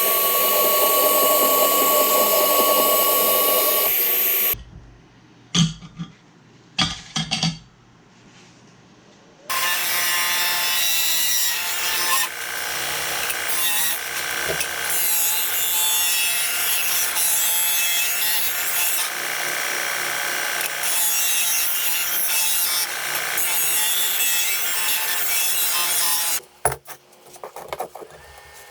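A power tool running and cutting in two long stretches, with a quieter gap holding a few knocks between them and more knocks near the end.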